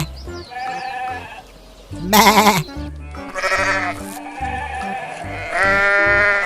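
Sheep bleating several times, the loudest a quavering bleat about two seconds in and a long one near the end, over background music with a low beat.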